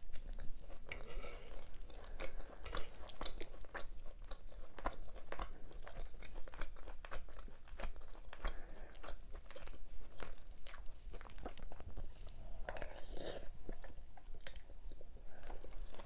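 A person chewing food close to the microphone: a steady run of short smacking and crunching clicks.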